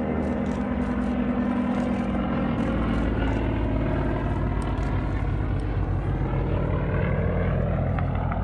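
Propeller airplane's piston engine running steadily in flight, growing slowly louder with a slight rise in pitch as it approaches.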